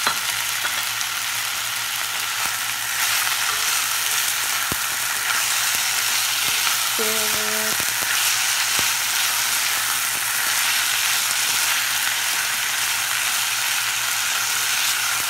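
Hearts of palm, tomato and onions sizzling steadily in hot oil in an enamelled pot while a wooden spoon stirs them through, with a few light clicks.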